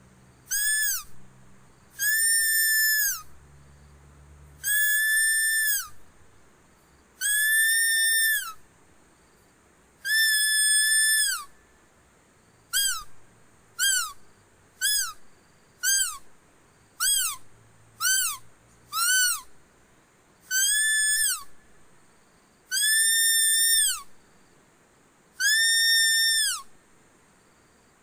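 Animal-luring decoy call: a clear, high whistled note with a dip in pitch at the end of each note. It comes as long held whistles of about a second each, then a run of short notes about one a second, then long whistles again.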